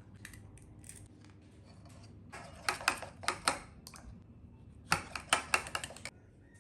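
Two bursts of quick, sharp clicks and clatters from hard objects being handled, several strokes each and about two seconds apart, over a low steady hum.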